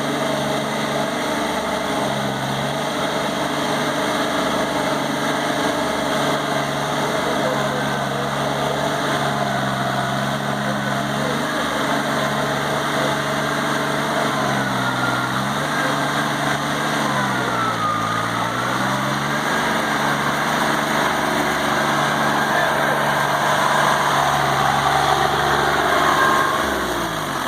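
Shibaura 33 hp tractor's diesel engine running steadily under load while puddling a flooded paddy. Its speed dips and recovers a few times as it lugs, then drops away near the end.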